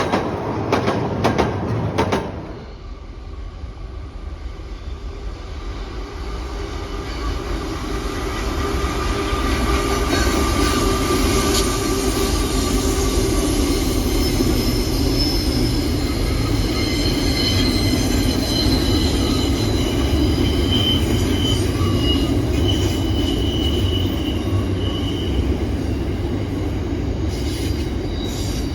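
Train running past on steel rails, with a low rumble and thin high-pitched wheel squeal. A short stretch of sharp clicks comes first, then the train noise grows louder over several seconds and holds steady.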